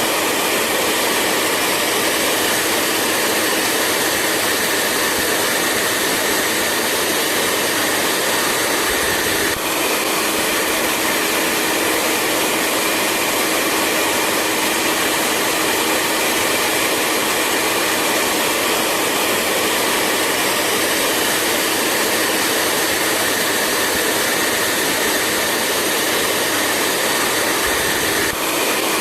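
Hair dryer running steadily: a constant rush of air with a faint motor hum underneath. It dips very briefly twice, about ten seconds in and near the end.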